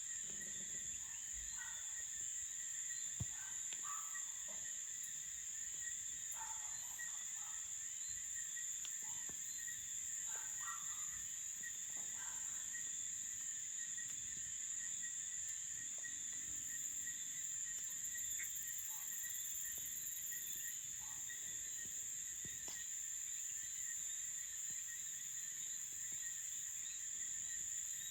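A steady, high-pitched chorus of crickets chirping, with a few short, faint calls and occasional clicks scattered through it.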